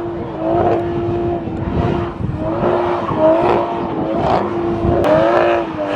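Toyota Supra drift car's engine held at high, fairly steady revs while doing donuts, the pitch dipping and rising a little several times, over the hiss of spinning tyres.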